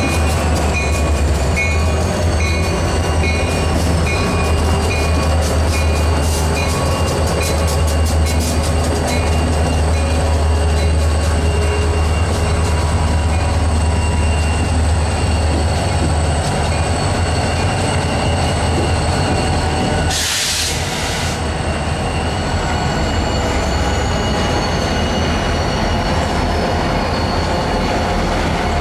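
Model train running on a home layout: a steady electric motor hum with wheel and track noise throughout, and a brief hiss about twenty seconds in.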